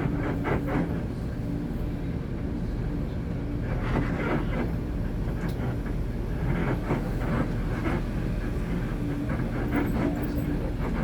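Heavy bus engine running with a steady low rumble and a held low tone. Bursts of rattling clatter come and go every two to three seconds, as from the vehicle rolling over ramp joints or deck plates.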